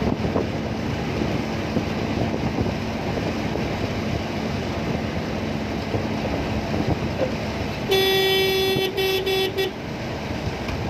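Heavy rain falling steadily. Near the end a vehicle horn honks for about two seconds in a few short toots.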